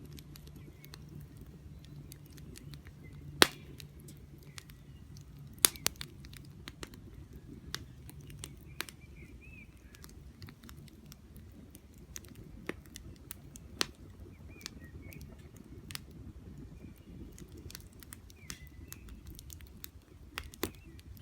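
Wood campfire crackling, with sharp pops at irregular intervals (the loudest about three seconds in) over a low steady rumble. Small birds chirp faintly now and then.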